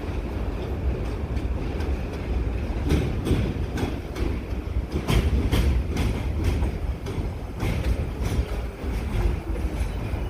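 New York City subway train running through the station, its wheels clacking over rail joints in an uneven run of sharp clicks over a steady low rumble.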